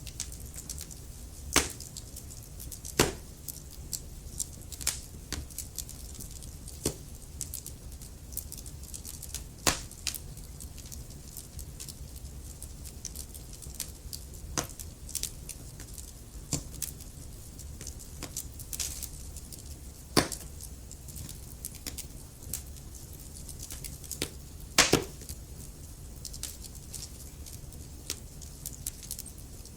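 Wood fire crackling in a fireplace: burning logs give sharp pops and snaps at irregular intervals over a low, steady rumble of flame, with a few louder pops standing out.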